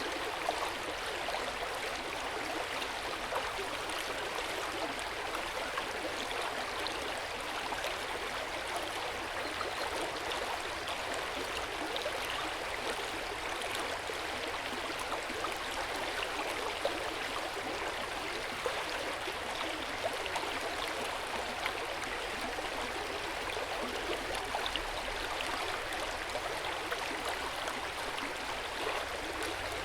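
Hot-spring water running into an open-air bath: a steady, gentle splashing and gurgling flow with small drips and splashes scattered through it.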